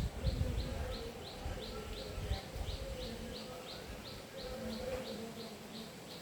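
A steady series of short high chirps, about three a second, from a calling bird or insect in the trees, with a low rumble during the first half that fades about halfway through.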